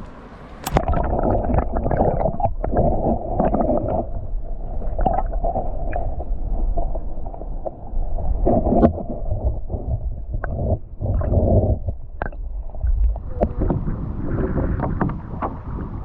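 Muffled gurgling and rumbling of lake water heard through a GoPro action camera held under the surface. A splash about a second in marks it going in, and sharp knocks and bubbling follow.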